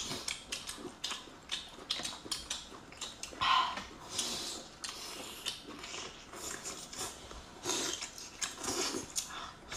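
Close-miked chewing and lip-smacking of people eating lobster meat: a run of short clicks and smacks, with a few louder mouth sounds about three and a half seconds in and again near the end.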